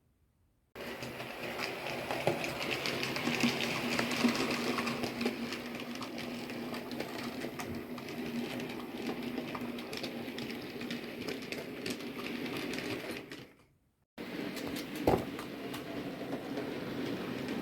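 An OO gauge DC model locomotive running on the layout's track: the steady hum of its small electric motor with wheels clicking over the rail joints. It breaks off briefly about three-quarters of the way through, then resumes.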